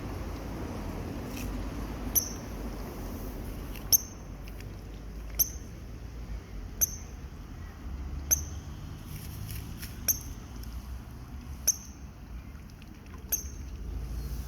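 Cygnets peeping: short, high, thin peeps repeating about every one and a half seconds.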